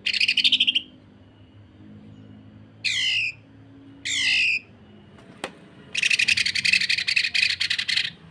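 Greater green leafbird (cucak ijo) calling in rough bursts. It opens with a short fast rattle, then gives two harsh down-slurred calls about three and four seconds in and one sharp click. Near the end comes a two-second rapid buzzing rattle, the rough 'sewing machine' call.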